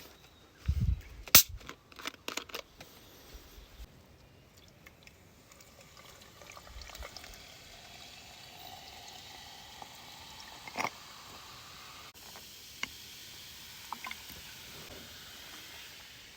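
Liquid being poured in a steady stream, after a few sharp clicks and knocks of gear being handled.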